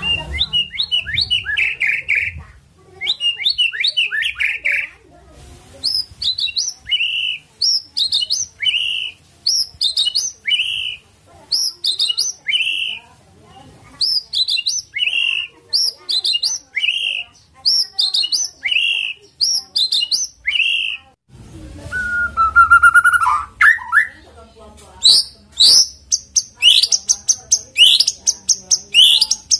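White-rumped shama singing: short, high phrases repeated about once a second, a lower rising trill a little past the middle, and louder, denser phrases near the end.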